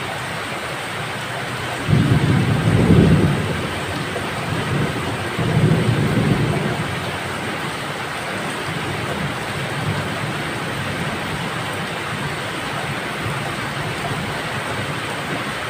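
Steady heavy rain hissing, with two brief low rumbles about two seconds in and about six seconds in.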